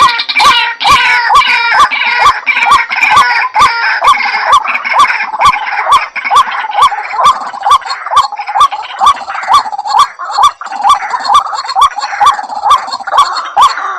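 White-breasted waterhen (ruak-ruak) calling: a fast, even run of short rising 'kruak' notes, about two to three a second. A second overlapping call layer is heard for the first few seconds.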